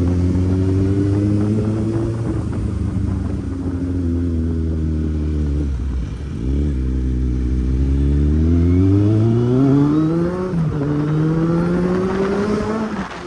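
Kawasaki Z800's inline-four engine accelerating through the gears. Its pitch rises, drops sharply at a gear change about six seconds in, climbs again and drops at another shift about ten and a half seconds in.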